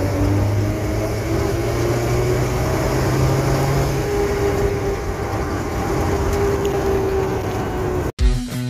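Suzuki Futura 1.5's four-cylinder engine and road noise heard from inside the cabin while driving along steadily, the engine pulling smoothly with no misfire, which the mechanic judges back to normal. Near the end it cuts off suddenly and music starts.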